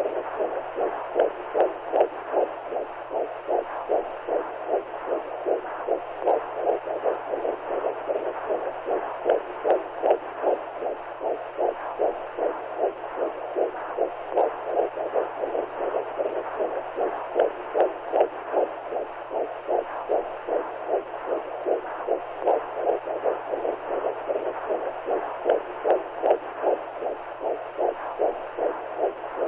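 Womb sound for soothing a baby: a mother's heartbeat heard as evenly repeating whooshing pulses, with a steady low hum beneath.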